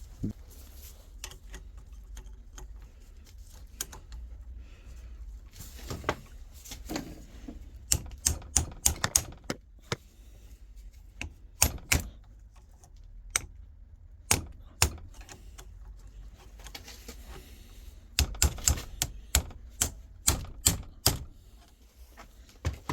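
Hammer tapping a punch to knock out the lock on a Toyota automated manual gearbox, in several quick runs of sharp metal taps.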